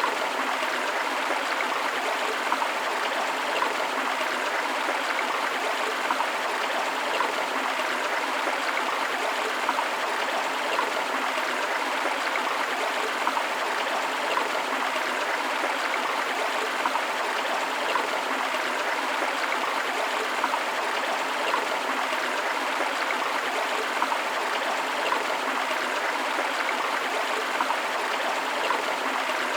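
Rushing river water and a small waterfall: a steady splashing, bubbling rush with no low rumble.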